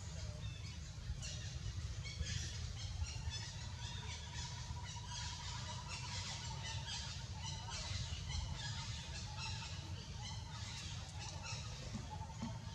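Birds chirping in many quick, short calls over a steady low rumble.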